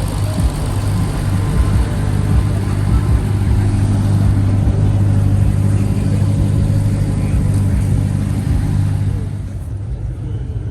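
Car engine running close by, a steady deep drone that holds level, then eases off about nine and a half seconds in.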